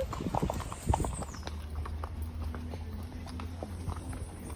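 Horses' hooves clopping at a walk, irregular knocks over a steady low rumble.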